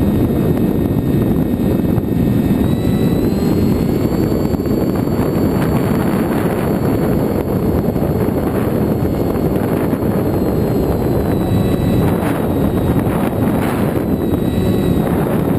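Wind rushing over an FX-61 foam flying-wing RC plane and its onboard camera, with the thin high whine of its electric pusher motor and propeller. The whine rises slightly in pitch about 3 s in, holds, then slides back down after about 10 s as the throttle eases.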